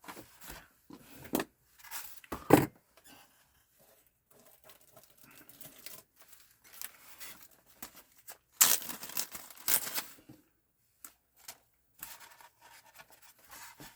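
Scattered clicks and small knocks of a PS4 console's plastic and metal parts and screws being handled during disassembly, with a few louder bursts of rustling, tearing-like noise, the loudest about two and a half seconds in and a cluster near nine seconds.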